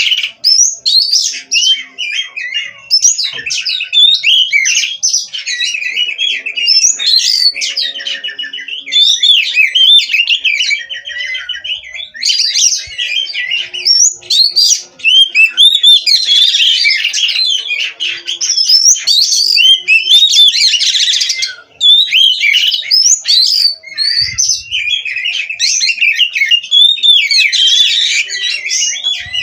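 Oriental magpie-robin (kacer) in full, nonstop song: loud, varied whistled phrases and rapid trills running one into the next with barely a pause.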